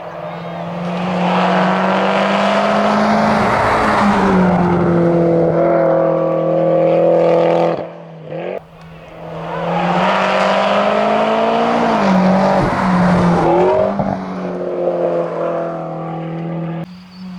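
Mitsubishi Lancer Evolution X MR rally car under hard acceleration, its turbocharged four-cylinder revving up and dropping back through gear changes. This happens in two loud passes, split by a sudden break about eight seconds in.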